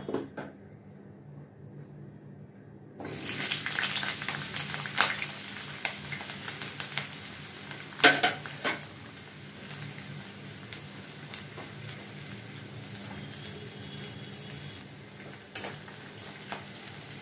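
Onions sizzling as they fry in hot oil in a kadai; the sizzle starts suddenly about three seconds in and then settles to a steady hiss. A spoon clinks and scrapes against the pan now and then, loudest just after the middle.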